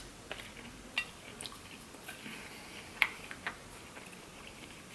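Quiet eating sounds close to the microphone: a few scattered sharp clicks and smacks over a faint hiss, the loudest about three seconds in.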